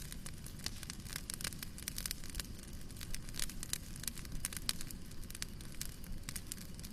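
Wood fire burning in a fireplace: irregular sharp crackles and pops, several a second, over a soft low rumble of the flames.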